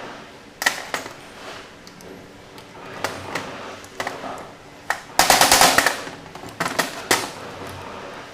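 Small metal carburetor parts and hand tools being handled on a workbench during a Pierburg 2BE carburetor rebuild: scattered sharp clicks and knocks, with a loud burst of rapid clicking lasting well under a second about five seconds in.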